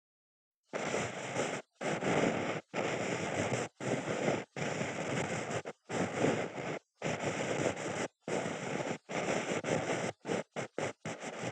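Ear-cleaning scrapes close to the microphone: a run of scratchy strokes of about a second each with short pauses between, turning into quicker, shorter strokes about ten seconds in.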